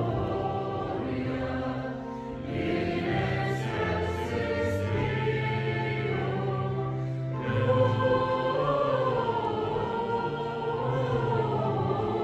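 Church choir singing a Christmas carol, with sustained low organ tones underneath.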